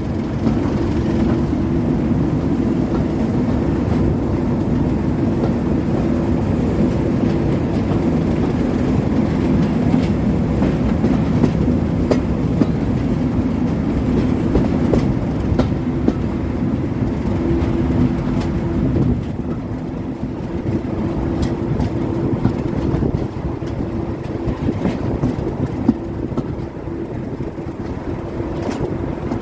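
Diesel-hauled train running, the locomotive's engine droning steadily with wheels clicking over the rail joints. It grows somewhat quieter about two-thirds of the way through.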